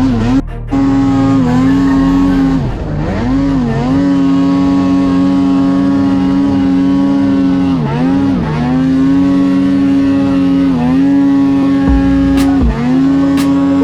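Snowmobile engine held at high revs under throttle, its pitch steady with brief dips and recoveries several times as the throttle is eased and reapplied. A few sharp clicks near the end.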